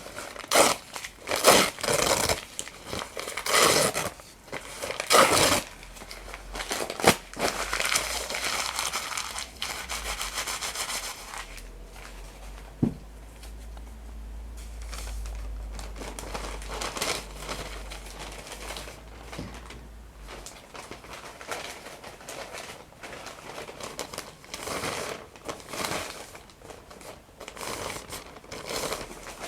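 Paper being torn and crumpled by hand in a run of rustling rips, louder in the first half, with a single sharp click about 13 seconds in.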